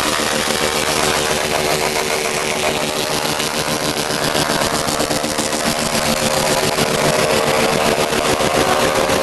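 Motorcycle engine running at a fairly steady speed, loud and even throughout.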